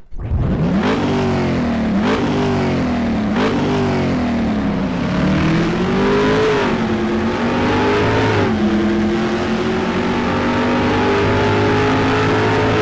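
Racing motorcycle engines at full throttle. In the first seconds the pitch climbs and drops back three times, about every 1.3 s, as the bike shifts up, and then several engines run together at high revs.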